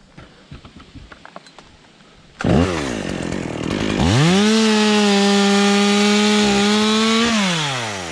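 Stihl MS 201 two-stroke chainsaw starting up about two seconds in and settling briefly to idle. It is then throttled up to a high, steady run for about three seconds, and drops back toward idle near the end.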